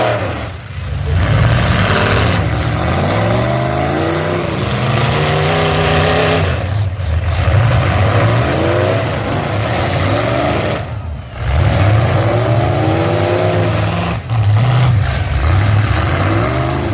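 Several full-size pickup truck engines revving hard and easing off, their pitch rising and falling over and over. The sound drops off briefly several times when the throttle is lifted.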